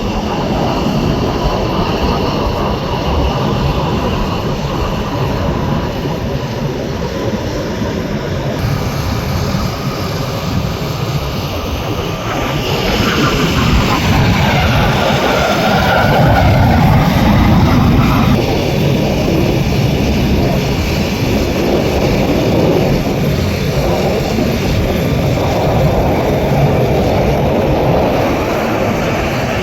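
Jet engines of Aermacchi MB-339 jet trainers in flight, a steady rushing rumble that swells to its loudest about halfway through as the aircraft pass, then eases off.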